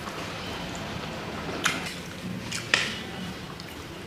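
Close-miked eating sounds: wet chewing and mouth noises from people eating fried chicken pieces by hand, with two sharp clicks about a second apart midway.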